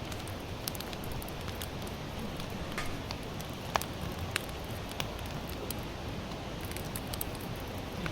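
Campfire of sawtooth oak (kunugi) firewood burning, crackling with scattered sharp pops over a steady low rush; the loudest pop comes a little before the middle.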